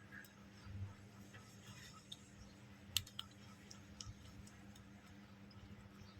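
Faint scattered small clicks and taps of phone parts and tools being handled during a screen repair, with a sharp double click about three seconds in, over a low steady hum.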